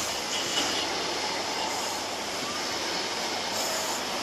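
High Speed Train (InterCity 125) coaches rolling past close by as the train departs, their wheels on the rails making a steady rushing noise.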